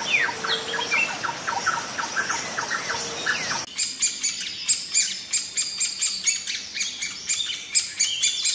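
Birds chirping: short mid-pitched chirps over background noise, then, about four seconds in, a sudden switch to many rapid, higher-pitched chirps in quick succession.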